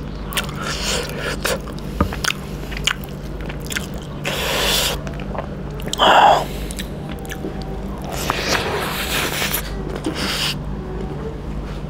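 Close-miked eating sounds of a man eating fried chicken innards curry and rice by hand: wet chewing and biting with many small clicks, and a few louder bursts as food goes into the mouth.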